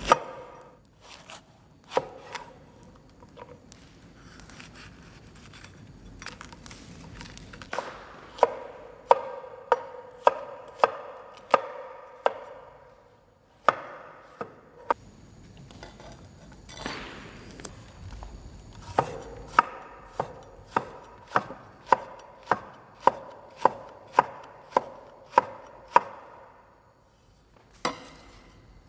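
Kitchen knife chopping food on a cutting board: two runs of steady strokes, about two every second, each with a short ringing knock, plus a few single cuts between them.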